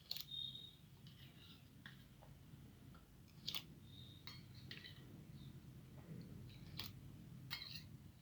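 Faint chewing and eating sounds: scattered soft clicks and a few brief, high clinks, over a steady low hum.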